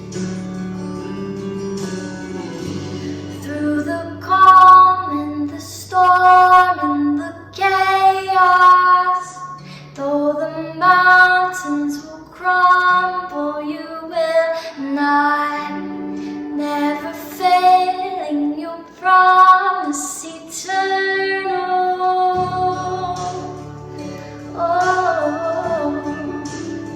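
A woman's voice sings a slow worship melody over a soft accompaniment of long held chords.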